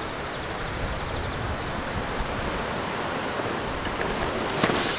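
Strong wind buffeting the microphone, a steady rushing noise. A short sharp knock sounds near the end.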